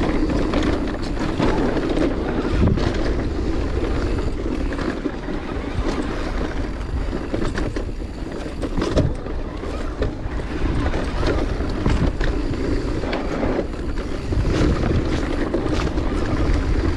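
Wind rushing over the microphone and knobby tyres running on a dry, loose dirt trail as an electric mountain bike descends fast, with short clatters and knocks from the bike over bumps.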